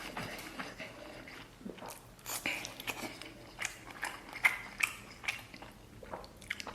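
A man chewing and biting mouthfuls of red-braised beef close to the microphone: irregular smacks and clicks.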